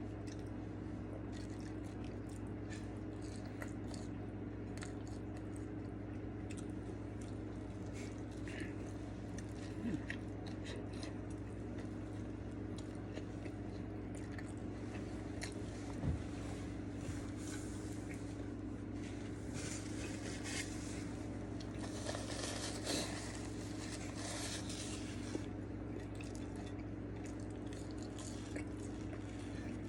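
A person chewing and biting a burger-and-fries meal close to the microphone, with wet mouth sounds and small crunches over a steady low hum. Around two-thirds through there is a denser stretch of crunching.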